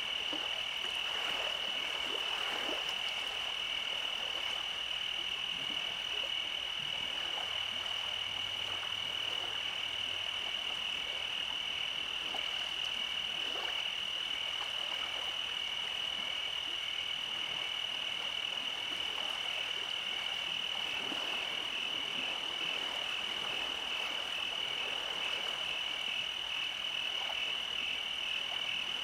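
Night chorus of frogs and insects: a steady, unbroken high-pitched trill with scattered short croaking calls.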